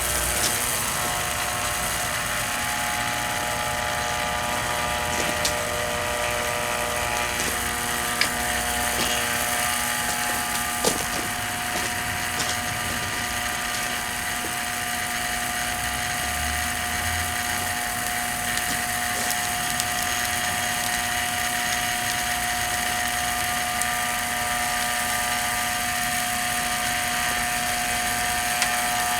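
The damaged motor of a vintage Hoover upright vacuum cleaner running with a steady, unchanging whine, as it is being run to burnout. A few sharp clicks sound over it.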